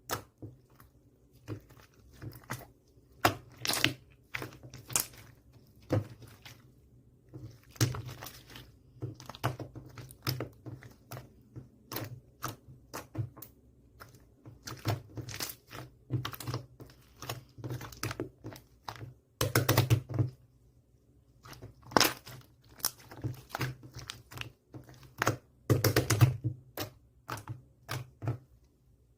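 Clear slime being squished and pressed by hand, making irregular sharp clicks and pops, with two denser stretches of squishing about two-thirds of the way through and again near the end.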